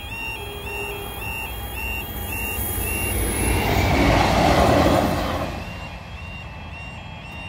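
A Class 158 diesel multiple unit passes over a level crossing, its engine and wheel noise swelling to a peak about four to five seconds in and then fading. Throughout, the crossing's two alarms keep up a squeaky, high-pitched warbling tone that repeats over and over.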